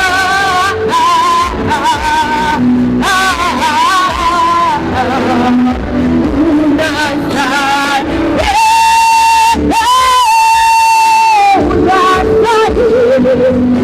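Worship music with singing, loud and steady, with one long held high sung note about two-thirds of the way through.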